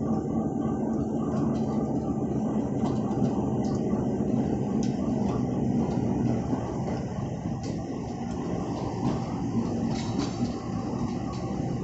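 Passenger coaches of a departing train rolling past at low speed: a steady rumble of wheels and bogies on the track, with a few faint clicks.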